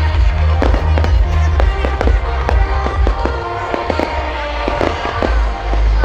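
Aerial fireworks display bursting: a dense run of sharp bangs and crackles, several a second, over loud music with a deep bass.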